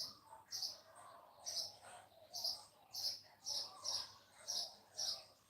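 A bird calling over and over: a short, high chirp repeated evenly about twice a second, with softer, lower chirping beneath it.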